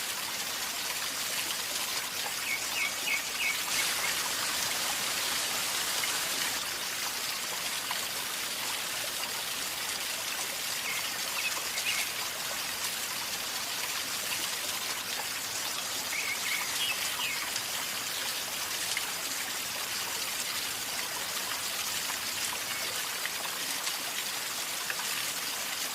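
River water flowing and gurgling steadily, with a few short high chirps breaking through three times.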